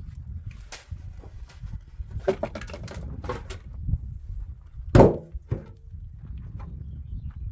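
Irregular knocks and thuds, the loudest a sharp bang about five seconds in, over a low steady rumble.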